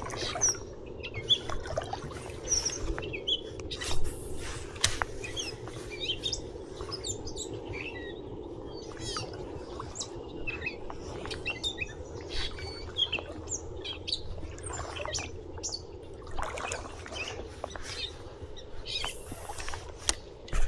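Small birds chirping in short, scattered calls throughout, over a steady low rushing background. Sharp clicks and knocks come here and there, the loudest about four seconds in.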